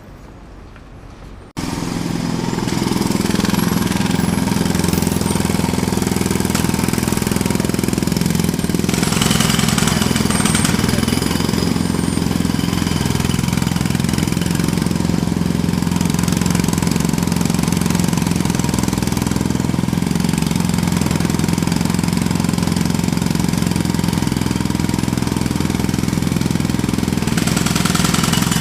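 Jackhammer starts abruptly about a second and a half in, then hammers continuously without a break.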